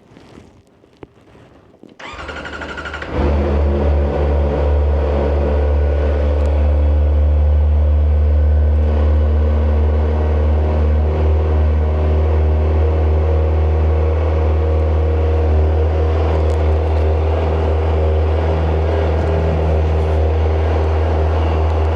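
Kawasaki ZX-4RR's inline-four being started: the starter motor cranks about two seconds in, the engine catches about a second later and settles into a steady idle.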